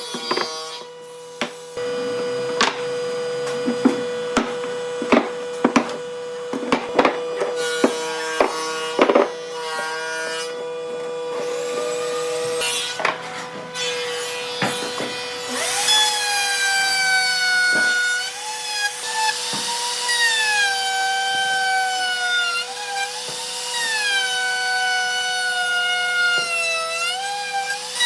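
A power tool's motor running with a steady whine while wood is knocked a dozen or so times. From a little past halfway the motor's pitch dips and recovers again and again as it cuts into wood.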